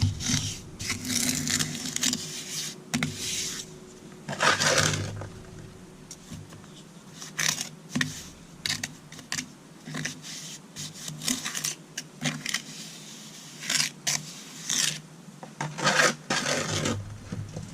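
A hand tool scraping and rubbing on concrete in irregular strokes, some short and some longer, a couple of seconds apart.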